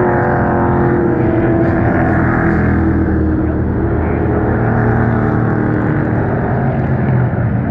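Pro Truck race trucks' engines running at speed on an oval track, several engines overlapping in one steady, loud drone whose pitches drift slightly up and down.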